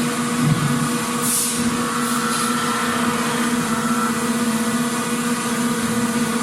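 Factory machinery running steadily: an even mechanical hum with a few held tones over a wash of noise, and a brief hiss about a second and a half in.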